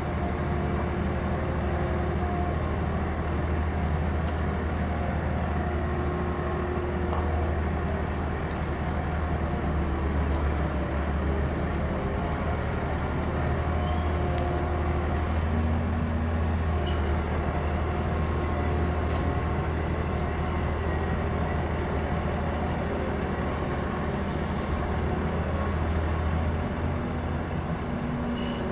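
Heavy diesel engine running with a steady low drone.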